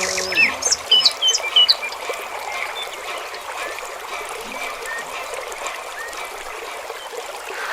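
Steady trickling water, with birds chirping a few times in the first couple of seconds.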